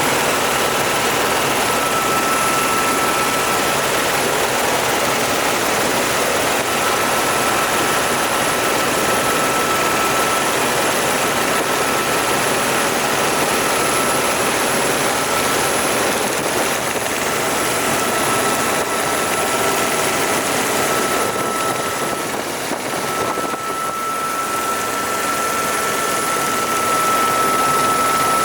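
Helicopter running steadily: a constant rush of rotor and engine noise with a steady high whine over it, easing slightly about two-thirds of the way through before picking up again.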